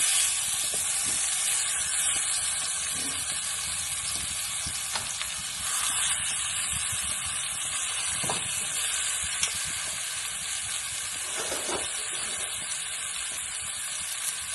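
Cut-up seasoned chicken pieces frying in hot oil in a skillet, giving a steady sizzle.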